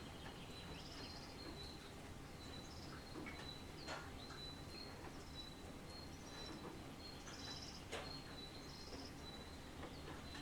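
Faint outdoor rain ambience. Insects chirp steadily at one high pitch, with short bird or insect trills over a low, even background haze. Two sharp drip-like ticks stand out, about four and eight seconds in.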